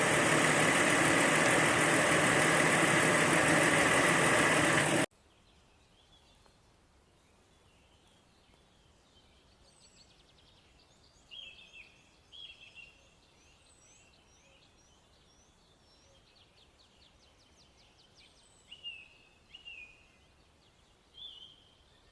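A loud, steady noise that cuts off suddenly about five seconds in. Then, against a quiet background, a small bird calls with scattered short chirps and quick falling notes, a few louder ones near the middle and toward the end.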